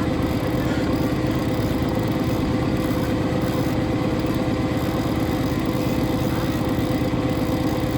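Boat engine running steadily at a constant speed, an even low rumble with a steady hum over it.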